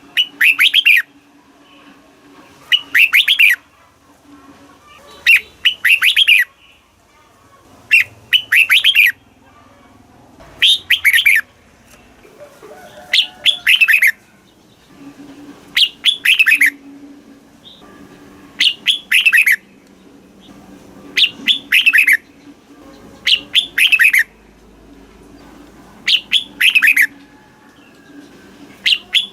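Red-whiskered bulbul singing: a short, loud phrase of quick whistled notes, repeated about every two and a half seconds.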